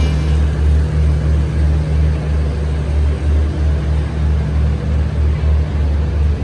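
Low, steady rumble of a vehicle in motion, its deep drone pulsing unevenly.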